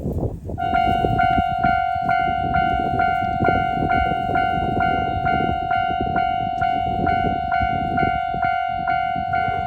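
Railway level-crossing warning bell ringing, a repeating electronic ding about twice a second that starts about half a second in, over a low rumble.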